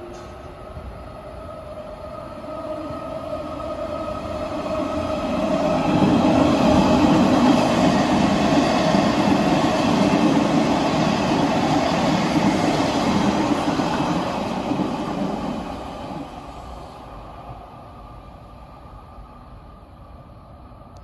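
Odakyu 70000 series GSE Romancecar electric train passing through the station at speed without stopping. The rumble of wheels on rail and the running noise build as it approaches, stay loud for about ten seconds as the cars go by, then fade as it pulls away.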